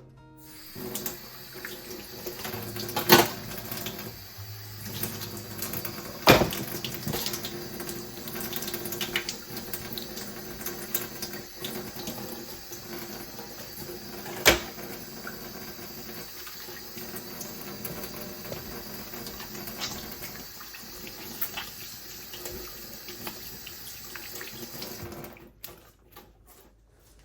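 Water running from a tap into a sink, with three sharp knocks along the way; the water stops shortly before the end.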